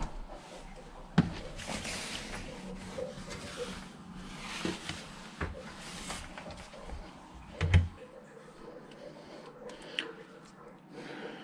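Scattered knocks and rustling from things being handled and moved, with a sharp knock about a second in and a heavier thump about two thirds of the way through.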